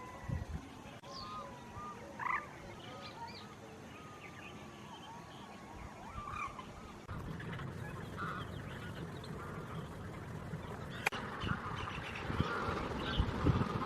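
A mix of wetland bird calls: short honking calls and gliding whistled notes. About seven seconds in, the steady background hum underneath becomes suddenly louder.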